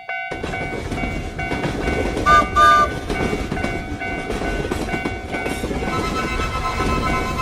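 A train running past with a steady rumble and clickety-clack, while a Japanese railroad-crossing bell keeps ringing its repeating 'kan-kan' tone. The train horn sounds two short toots about two seconds in.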